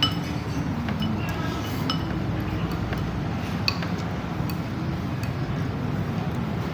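Scattered clinks of dishes and cutlery, about half a dozen sharp ringing taps, over a steady low rumble of background noise.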